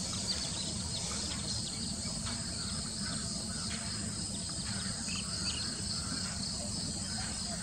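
Steady high-pitched insect chorus, cricket-like, over a low background hum of outdoor noise, with a few short faint bird chirps scattered through.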